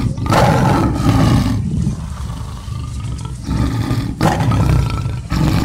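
Tiger roar sound effect: several long, rough roars one after another with short breaks between them.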